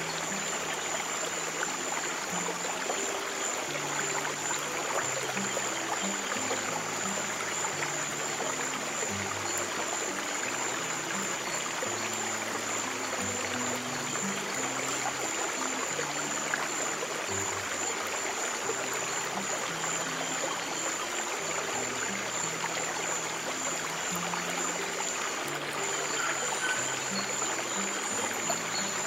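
Stream water running steadily, with slow, soft low piano notes held beneath it and a thin, steady high tone throughout.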